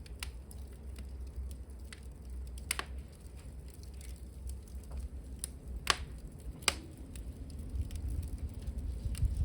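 Wood fire crackling in a hearth: scattered sharp pops, the loudest about six seconds in, over a low steady rumble.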